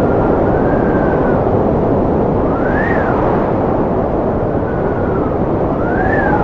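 Strong wind blowing steadily, a dense rushing noise with a faint howling whistle that rises and falls in pitch, cresting about three seconds in and again near the end.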